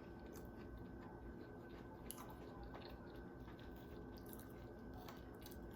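Quiet room tone: a steady low hum with a thin steady whine above it, and a few faint scattered clicks, one a little stronger about two seconds in.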